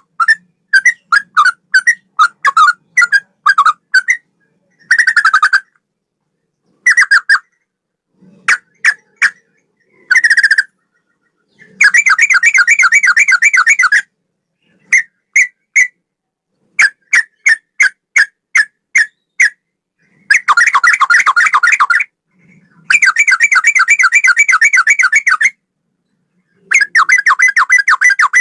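Sooty-headed bulbul (trucukan) singing a loud song styled like a straw-headed bulbul's: runs of short, sharp whistled notes with pauses between them, alternating with rapid trills of two seconds or so.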